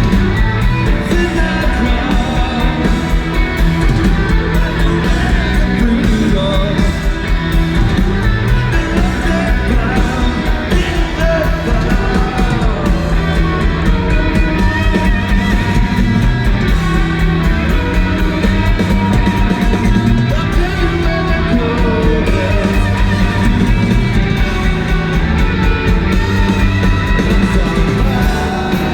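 Live rock band playing loud and without a break: electric guitars, bass and a steady drum beat.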